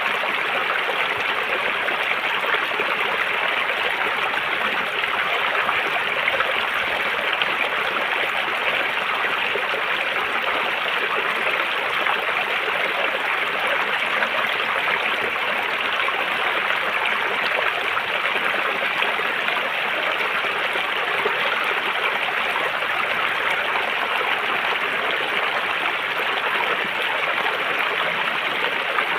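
River water flowing over rocks: a steady, even rush of running water that doesn't change.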